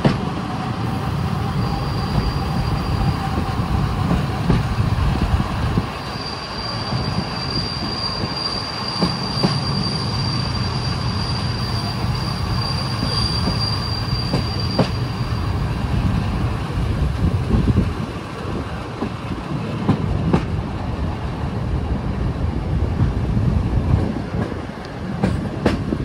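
Passenger train rolling slowly into a station: a steady low rumble of wheels on rail, a thin high squeal held through the first half, and a few sharp clicks as wheels cross rail joints.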